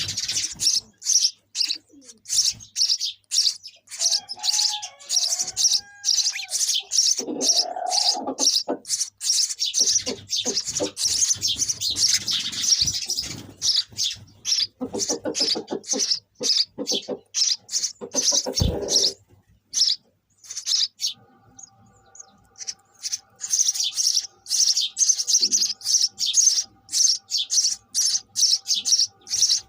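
Sparrows chirping in rapid runs of short, high-pitched chirps, many per second, with a few lower calls mixed in.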